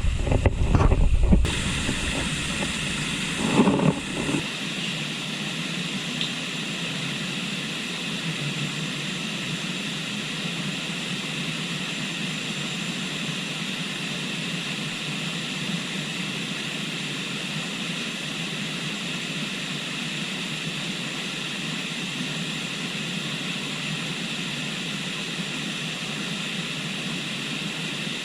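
Steady, even rush of a flowing river. During the first four seconds, loud low rumbles and bumps from wind or handling on the microphone sit on top of it and then stop.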